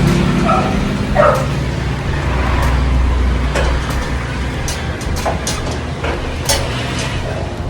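A dog barking a couple of times near the start, over a steady low rumble like traffic, with scattered sharp clicks later on.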